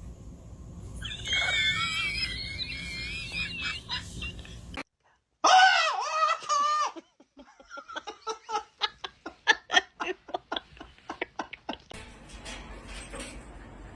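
A high, wavering, pitched whine or squeal, then after a short break a loud cry that bends up and down, followed by a run of rhythmic laughter, about three to four pulses a second.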